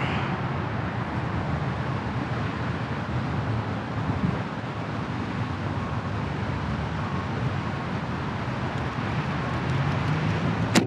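Steady wind and low rumble on the microphone, then a single sharp crack near the end as a PSE compound bow is shot.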